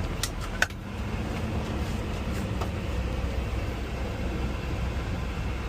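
Parked garbage truck's engine idling with a steady low rumble, with a few short clicks in the first second, one of them sharp and loud.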